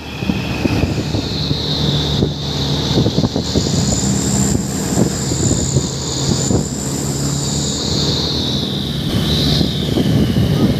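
Truck engine running loud through an aftermarket 'cung' exhaust, a deep steady drone with rapid crackling pops, and a high whine wavering above it.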